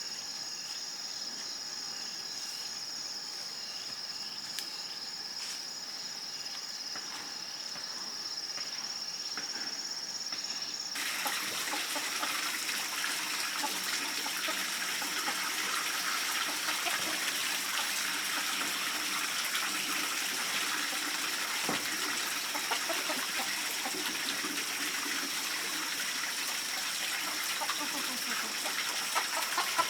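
A steady high chirring of insects, then, about a third of the way in, running water starts abruptly and carries on with the insects still faintly under it.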